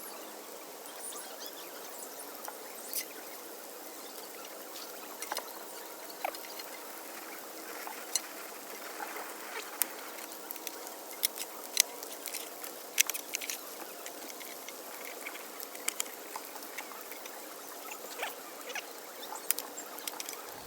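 Wood campfire crackling: irregular sharp pops and snaps over a low hiss, coming most thickly about halfway through.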